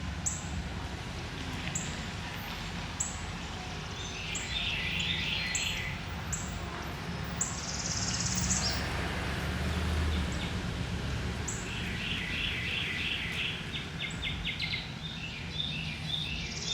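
Wild birds singing and calling: bursts of rapid chirping trills, from about four seconds in and again through the second half, with short high notes repeating about every second or so. A steady low rumble runs underneath.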